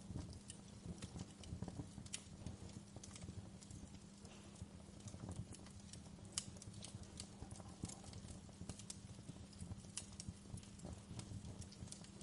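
Wood fire crackling, with irregular sharp pops and snaps over a low, steady hum.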